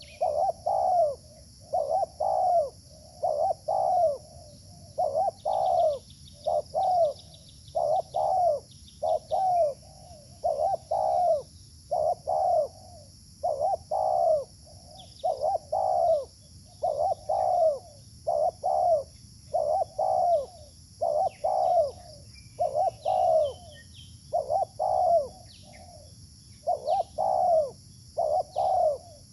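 Spotted dove (terkukur) cooing over and over: rounded, low, hollow coos repeated steadily, a little faster than one a second, in short runs.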